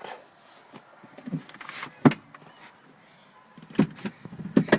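Car seat adjustment mechanism being worked: a sharp click about two seconds in, then a run of clunks and knocks near the end as the seat moves on its rails.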